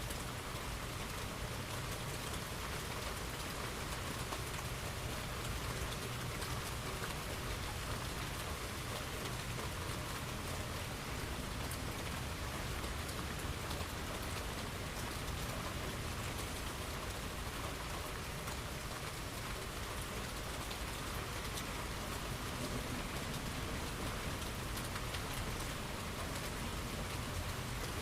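Steady rain falling, an even hiss with the fine patter of many drops on a surface, over a low, steady rumble.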